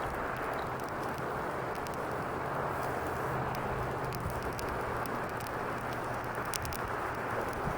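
Campfire burning: a steady rush of flames with frequent small sharp crackles and pops from the burning wood.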